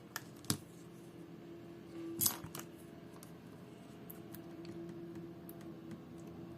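Small hard clicks and a sharp clink of tools and small watch parts being handled on a work surface: two quick clicks at the start and a louder clink with a brief scrape about two seconds in, then a few faint ticks, over a faint steady hum.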